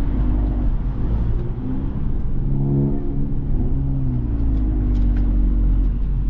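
Tuned Volkswagen Golf R's turbocharged four-cylinder engine running while driving, over a steady low road rumble; the engine note rises and falls in pitch through the middle.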